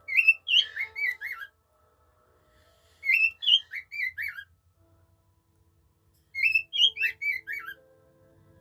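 Pet bird whistling its learned tune in three short phrases of quick, gliding notes, with pauses of a couple of seconds between them.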